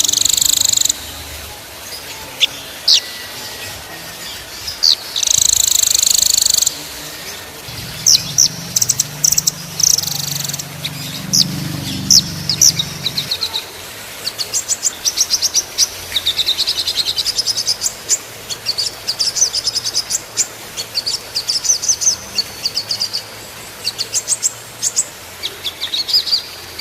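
Small songbirds singing at a high pitch in a dense mix of sharp chirps, buzzy phrases and fast rattling trill rolls, the kind of song compiled as masteran to tutor caged songbirds. Buzzy phrases come near the start and again a few seconds later. Unbroken runs of rapid trills take over after about the middle, and a faint low hum sits under the song before that.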